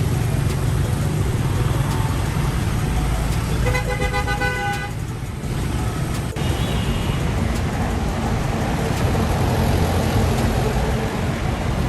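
Motor vehicle engine running steadily with road noise, and a horn honking once for about a second about four seconds in. A fainter tone sounds briefly a few seconds later.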